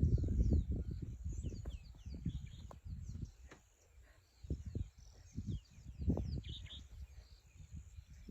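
Small birds chirping and calling in the bush, many short sliding notes, over an irregular low rumble that is loudest in the first second or so.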